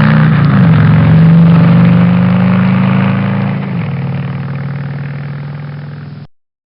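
Motorcycle engine running at held revs, its pitch dipping slightly about half a second in and again near four seconds. It then fades and cuts off about a second before the end.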